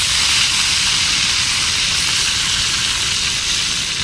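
Hot pan of meat over a campfire hissing and sizzling loudly and steadily, the hiss easing slightly near the end.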